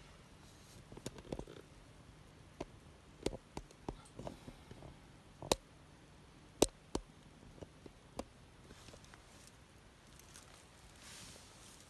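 Wood fire burning down in a steel fire pit, crackling with sparse, irregular sharp pops, two of them louder about halfway through.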